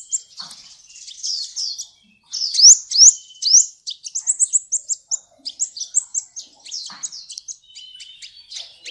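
Sunbird singing: a rapid, busy run of high, sharp chirps, many of them quick upward sweeps, several a second.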